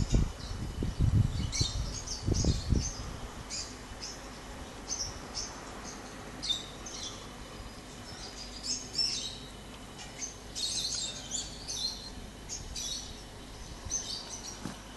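Small birds chirping and twittering in repeated short high calls. Low rumbling thumps of wind or handling on a phone microphone come in the first few seconds.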